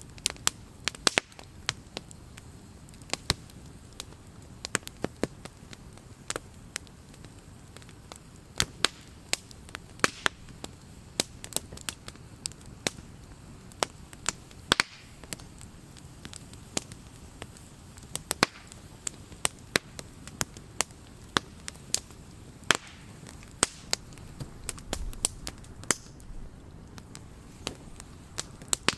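Campfire burning, the wood crackling and popping in sharp irregular snaps, one to a few a second, over a soft steady hiss.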